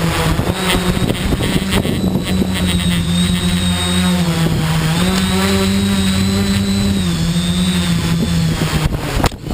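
Tricopter's electric motors and propellers buzzing steadily in flight, the pitch stepping up and down a little as the throttle changes. The sound drops away abruptly near the end.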